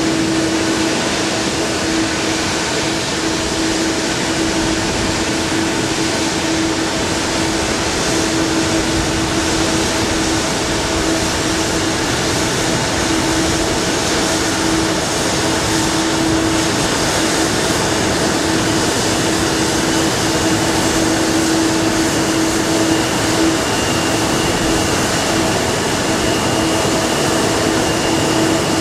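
Steady cabin noise inside a Boeing 777-300 airliner: jet engines and air conditioning running, with a steady hum tone through it. A faint higher whine joins about two-thirds of the way in.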